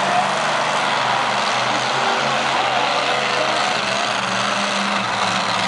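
Monster truck engine running steadily under a dense, loud wash of noise.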